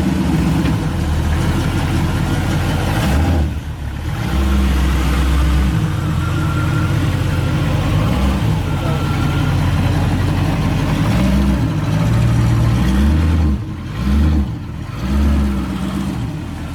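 A car engine running close by, loud and rumbling, its level rising and falling with the throttle. It eases off briefly about three and a half seconds in and again near the end.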